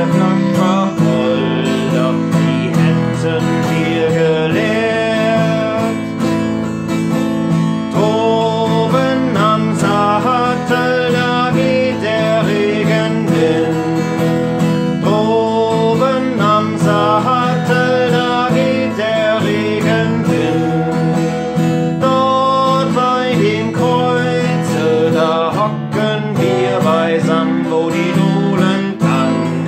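Strummed acoustic guitar with a melody line over it, an instrumental passage of a German campfire song.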